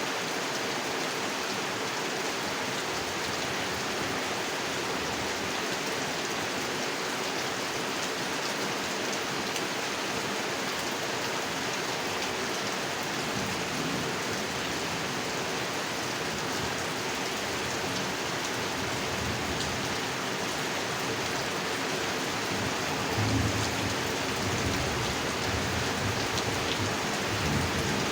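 Steady heavy rain falling on a pond, an even hiss of drops on water. Near the end a low rumble of thunder rises under it.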